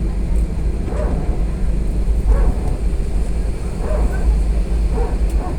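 Steady low rumble of an Airbus A320 heard from inside the passenger cabin. Short yelp-like vocal calls come over it about once a second.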